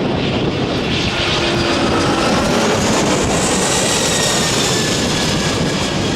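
Airbus A320 jet engines during a flypast: a loud, steady noise with faint whining tones that glide slowly down in pitch.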